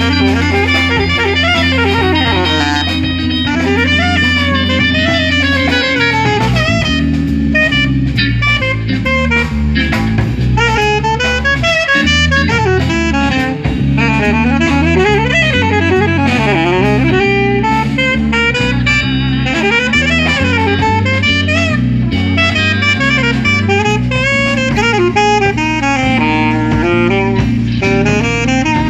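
Live instrumental jazz quintet playing: a horn solo in fast, running melodic lines up and down over walking bass, drum kit and guitar.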